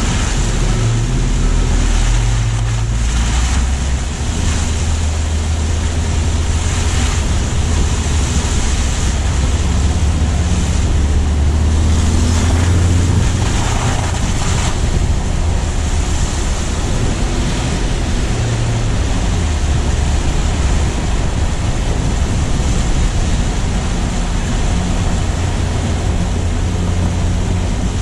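Car driving on a wet, slushy road, picked up low on the vehicle: steady tyre hiss over a low engine and road rumble, with wind on the microphone.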